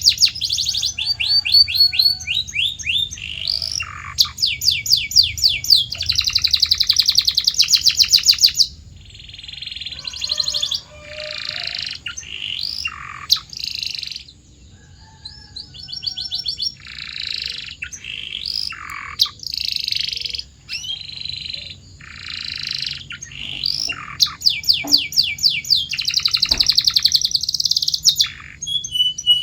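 Male domestic canary singing a long, varied song: fast rolls of repeated notes alternating with harsher phrases and brief pauses.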